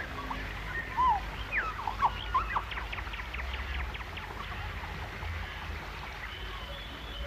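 Bird calls: a few quick chirps and falling whistles, then a rapid trill, over a low steady rumble.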